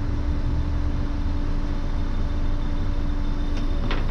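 Flatbed tow truck's engine running steadily, a low rumble with a constant hum over it.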